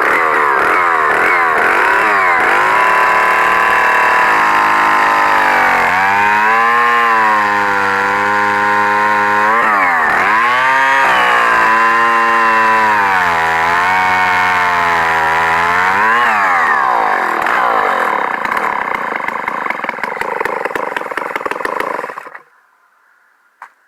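Vintage 125cc two-stroke chainsaw engine running and being revved, its pitch swinging up and down with the throttle, steadier in the middle with a few brief dips. About 22 seconds in it cuts off suddenly as the engine is shut down.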